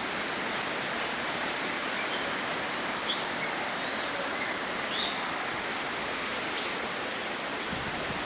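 Faint, short chirps from birds in a walk-through aviary, scattered through the middle of the clip, over a steady rushing hiss that is the loudest sound throughout.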